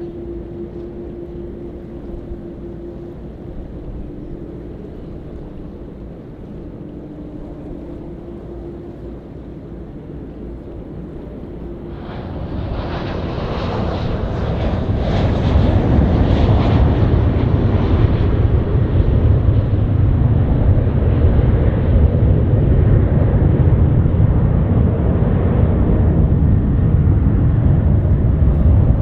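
Jet airliner engines passing close, faint at first, then swelling about twelve seconds in to a loud, deep rumble that holds.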